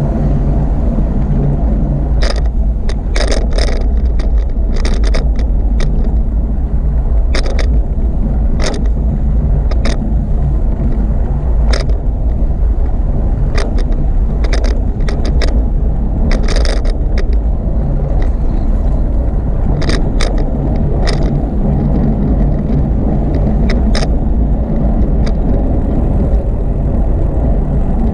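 Bicycle ride heard from the bike: a loud, steady rumble of wind and rolling noise, with sharp, irregular clicks and rattles coming in clusters as the bike goes over bumps.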